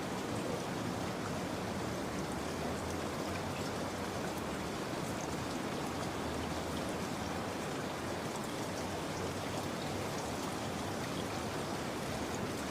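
Steady rain falling: an even hiss with faint, scattered ticks of drops.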